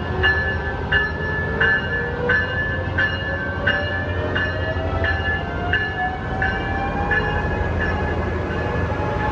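A train's bell ringing steadily about one and a half strikes a second, stopping near the end, over the steady low rumble of a locomotive. Beneath it a whine rises slowly in pitch, as from a train pulling away.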